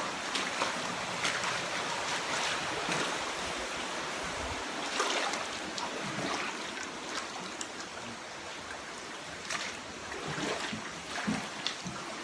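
Steady rushing noise of heavy rain and water, with scattered small ticks and knocks and a low thump about four and a half seconds in.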